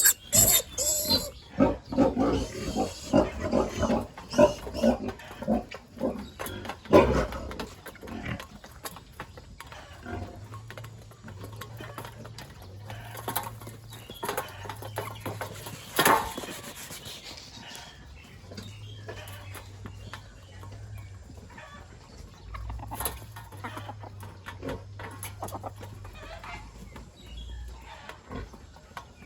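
Pigs grunting and squealing, busiest in the first eight seconds and sparser after, with a few sharp knocks.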